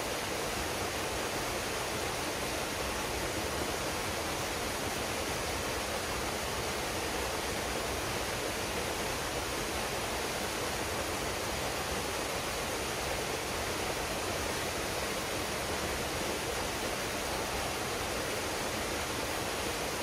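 Waterfall pouring into a pool: a steady, even rush of falling water with no change throughout.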